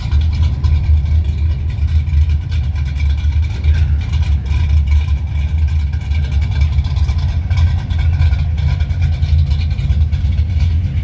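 Car engines running with a deep, steady low sound, from classic and muscle cars arriving at a car cruise.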